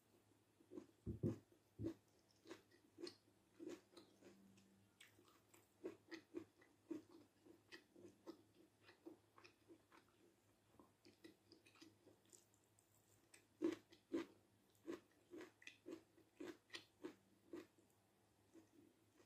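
Close-miked mouth sounds of someone chewing a stir-fry of sheep heart and vegetables, a steady run of wet, clicky chews at about two a second. The loudest bites come about a second in and again about two-thirds of the way through.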